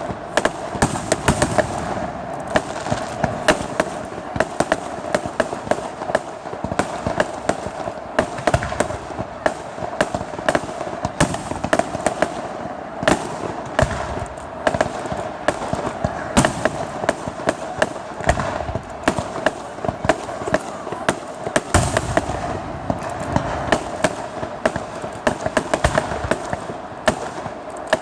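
Aerial fireworks going off in a dense, continuous barrage of bangs and crackles, many bursts every second.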